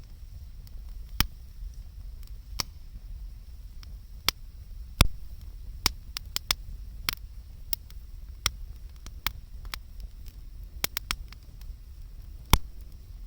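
Wood fire crackling: irregular sharp pops and snaps, the loudest about five seconds in and another near the end, over a low steady rumble.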